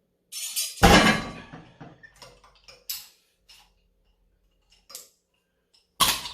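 Metal weight plates loaded on a rolling thick-bar grip handle clanking and clinking as the roughly 170 lb load is picked up and set down. There is a loud clank about a second in, lighter clinks after it, and another loud clank near the end.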